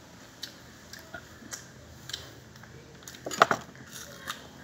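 Scattered small wet clicks of chewing, then a short crisp crunch about three and a half seconds in: teeth biting into a firm wax apple (tambis).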